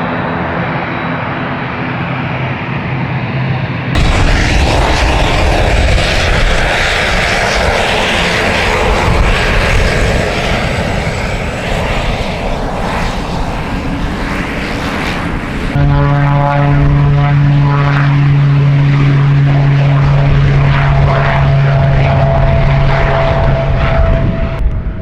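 Airliner engines running loud. The sound changes suddenly about four seconds in to an even rush, and again near sixteen seconds to a steady low hum with a higher whine.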